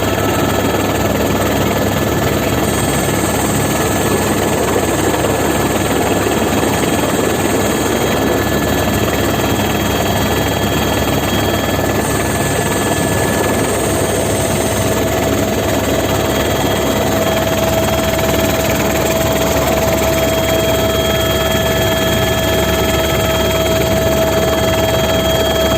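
Fire department helicopter in flight, heard from on board: steady, loud rotor and engine noise, with a thin whine that grows stronger about halfway through.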